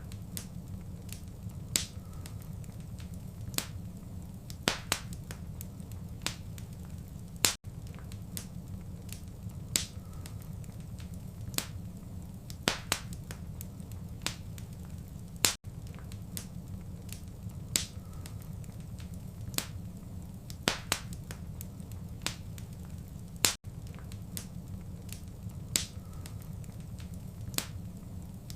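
Wood fire crackling in a fireplace: irregular sharp pops and snaps over a steady low rumble of burning. There is a brief dropout about every eight seconds.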